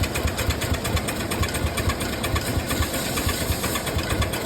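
Cub Cadet lawn tractor engine cranking on its starter, a fast, even chugging that goes on without the engine catching.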